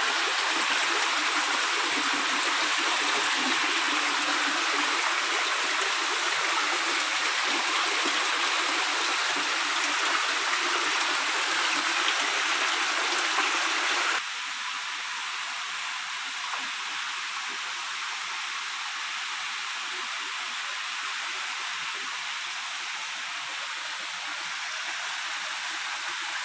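Steady rushing of flowing water, which drops suddenly to a quieter level about halfway through.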